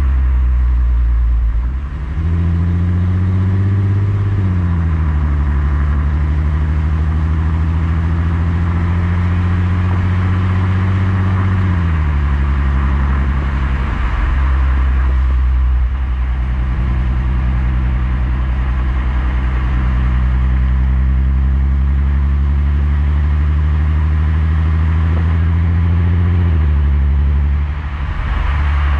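Skoda Superb's 3.6 FSI VR6 engine heard through a Gestec cat-back exhaust while driving, a deep steady note. The pitch climbs under acceleration and drops sharply three times as the DSG gearbox shifts up.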